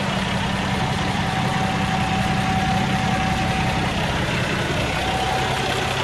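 Cummins ISX diesel engine of a Freightliner Cascadia truck tractor idling steadily.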